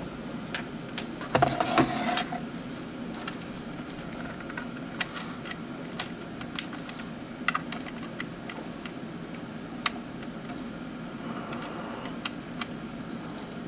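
Scattered light clicks and taps from handling the Geiger counter, its cable and the computer while they are being connected, with a brief cluster of louder knocks about a second and a half in. These are handling sounds, not the counter's clicks: the counter is not yet switched on.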